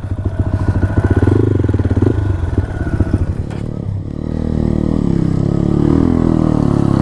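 Dirt bike engine running under throttle. The revs fall off briefly just before four seconds in, then pick up and hold higher.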